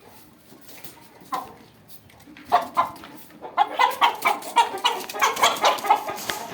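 Aseel chickens clucking: a quick run of short calls begins about two and a half seconds in and grows louder and denser.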